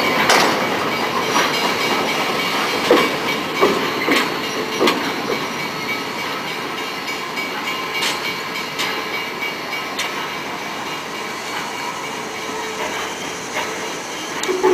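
Passenger train coaches rolling slowly by on steel wheels, with irregular clacks as the wheels cross rail joints, the sound slowly fading as the last car moves away.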